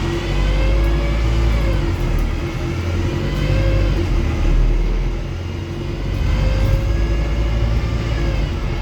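Wrightbus StreetDeck HEV double-decker bus, its Mercedes-Benz OM934 four-cylinder diesel and Voith automatic gearbox accelerating under a deep engine drone. A whine rises and falls in pitch three times as the bus pulls up through the gears.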